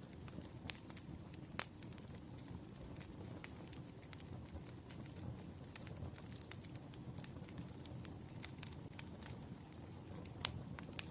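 Wood fire burning: a steady low rumble of flames with irregular sharp crackles and pops from the firewood, the loudest pop near the end.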